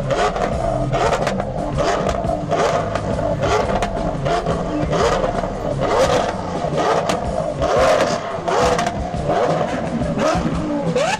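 Car engine revved repeatedly in short blips, with sharp cracks through the exhaust and a quick rise in pitch near the end.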